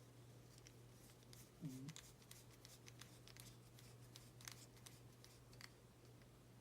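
Faint scattered clicks and light ticks of small plastic model parts being handled and fitted together, over a steady low hum, with one short low murmur about two seconds in.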